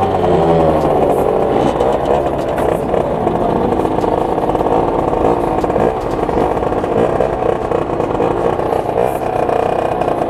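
Two-stroke engine of a 2011 Derbi DRD 50 fitted with a Voca Rookie cylinder kit and a derestricted 17.5 mm carburettor, pulling under way. The revs rise again just after the start, then hold fairly steady at high revs.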